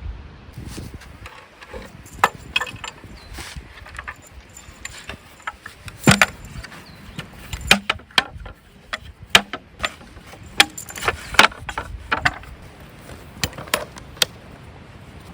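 An irregular series of sharp knocks and clinks, like wood and metal camp gear being handled and set down, with a few louder strikes.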